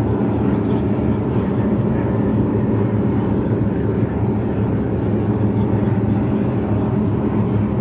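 Engines of classic offshore racing powerboats running hard on the course, a steady, loud drone.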